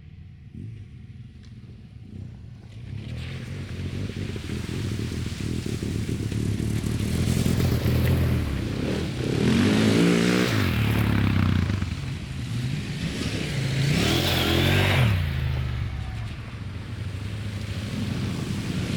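Adventure motorcycle engines running, growing louder a few seconds in, with rises in pitch as the bikes accelerate about halfway through and again near three-quarters of the way.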